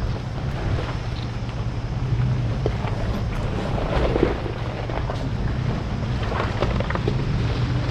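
Vehicle driving on a rough mountain road: a steady engine and road rumble with scattered knocks and rattles.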